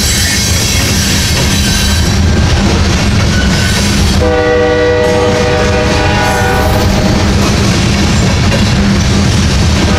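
Loaded grain hopper cars of a freight train rolling past with a steady heavy rumble and wheel clatter. About four seconds in, a train's air horn sounds a long chord for about three seconds, then fades.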